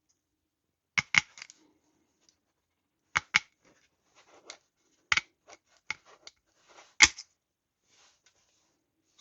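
Sharp metallic snapping clicks from a hand tool, mostly in close pairs about every two seconds, with fainter scraping clicks between; the loudest comes near the end.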